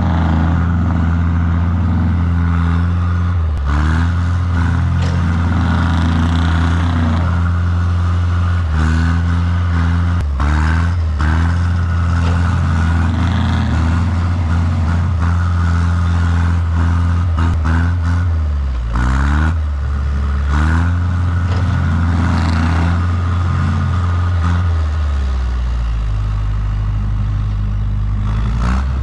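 Engine of a recovery vehicle working hard under load, pulling a stuck vehicle out of deep snow on a tow strap. The engine note rises and falls several times as the throttle changes and drops lower near the end, with a few short knocks and clatter.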